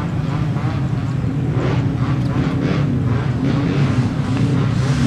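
Jet airliner engines at high power for the takeoff roll: a loud, steady low rumble with a rough crackle.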